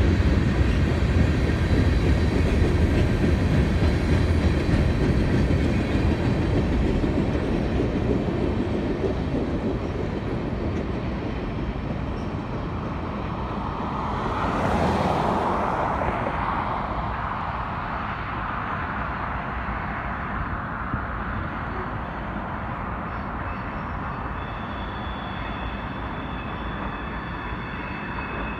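Gondola cars of a BNSF freight train rolling past on the rails, with a low rumble and some clickety-clack that fades as the end of the train moves away. About halfway through there is a brief louder whoosh.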